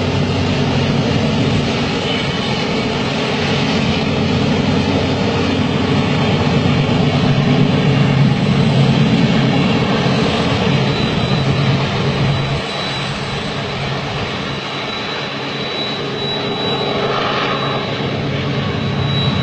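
Steady low drone of diesel freight locomotives hauling a long double-stack container train, with a broad rushing noise over the engine hum.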